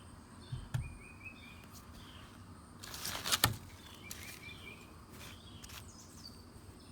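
Small birds chirping in the background, with a couple of soft thumps near the start and a short, loud rustling noise about three seconds in.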